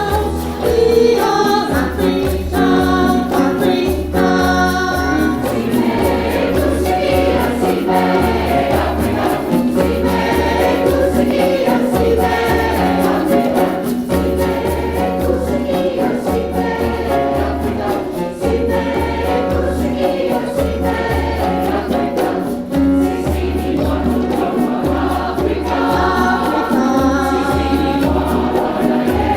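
Mixed community choir singing in harmony over a steady low beat.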